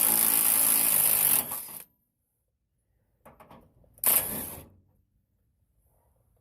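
Cordless power tool spinning the top bolt of a truck's rear shock. It runs on steadily, stops about a second and a half in, and gives one more short burst about four seconds in.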